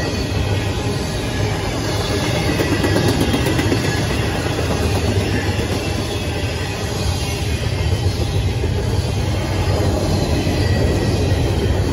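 A CSX double-stack intermodal freight train's loaded well cars rolling past, a steady loud rumble and rattle of steel wheels on the rails.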